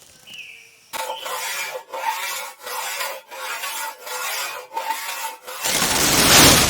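A small saw cutting wood in about seven even back-and-forth rasping strokes, roughly one and a half a second. It gives way to a loud, dense rushing noise near the end.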